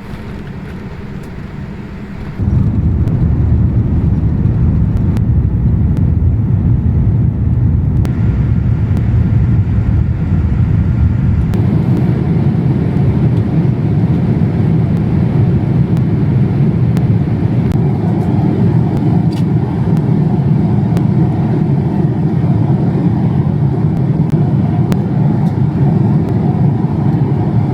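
Steady low rumble of a vehicle in motion, jumping louder about two seconds in and then holding steady.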